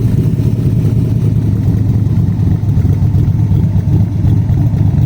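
Engine idling steadily while warming up from a cold start after sitting for about five days.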